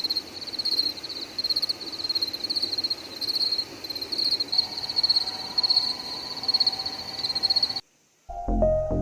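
Frogs croaking in a chorus, in repeated bouts. The chorus cuts off suddenly near the end, and music starts after a brief silence.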